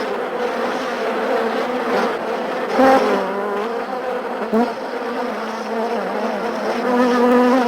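Honey bees buzzing: a continuous hum that wavers in pitch.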